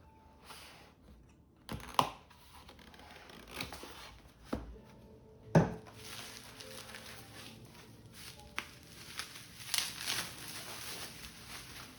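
Objects being handled: a few sharp knocks, the loudest about two and five and a half seconds in, then a stretch of crinkling.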